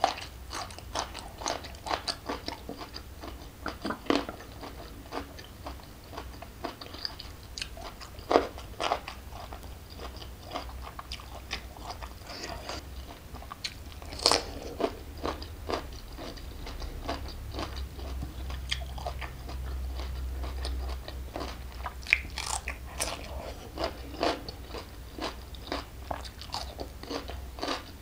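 Close-miked eating: a person biting into and chewing crunchy food with irregular crisp crunches and wet mouth clicks. One crunch about halfway through is the loudest.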